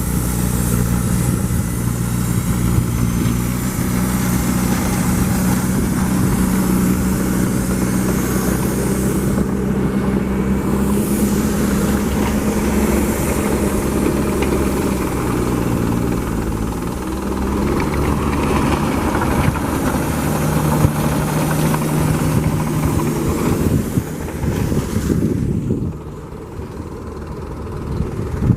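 A vehicle engine running, steady at first and then changing pitch partway through, over a constant road-and-wind rumble.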